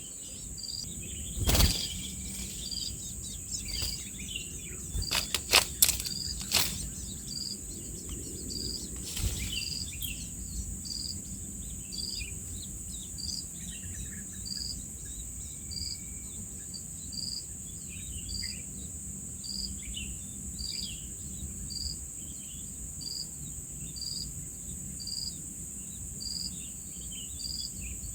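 Insects droning steadily at a high pitch, with a short high chirp repeating about once a second and scattered faint bird chirps. A few sharp knocks sound in the first seven seconds.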